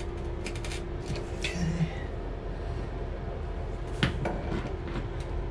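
A few sharp clicks and knocks of hand tools on metal plumbing fittings, with the loudest pair of knocks near the end, over a steady low hum.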